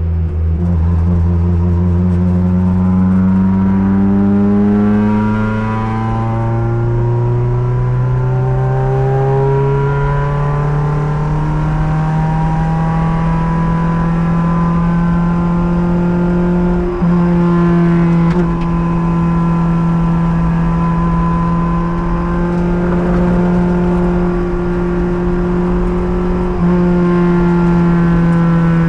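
Race car engine heard from inside the car under sustained throttle: its pitch climbs slowly for about twelve seconds, then holds nearly steady at high revs with a few brief blips, over steady wind and road rumble.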